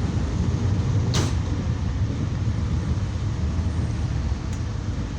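Metrolink commuter train running, heard from inside a passenger car: a steady low rumble, with a short sharp click about a second in.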